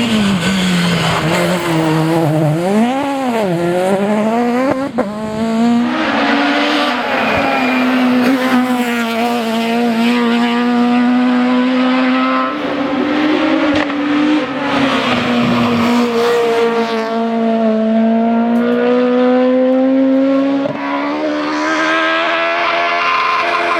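Citroën Xsara rally car's four-cylinder engine at high revs at racing speed, with a quick drop and rise in pitch about three seconds in and the engine note shifting up and down through the rest.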